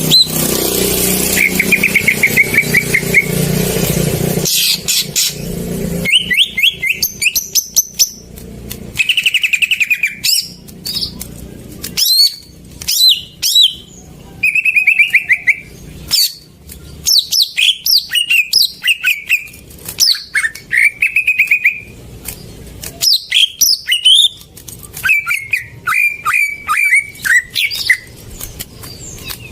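Green leafbird (cucak ijo) singing a varied song of rapid chirps, short trills and quick rising and falling whistles. A vehicle passing is heard over it for the first few seconds.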